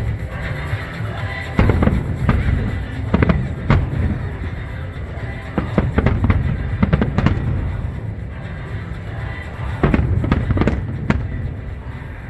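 Fireworks shells bursting in clusters of sharp bangs every few seconds, with music playing underneath.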